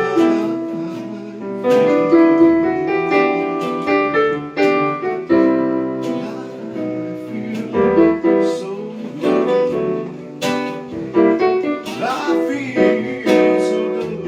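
Live piano and guitar accompaniment playing a song, with a steady run of struck notes.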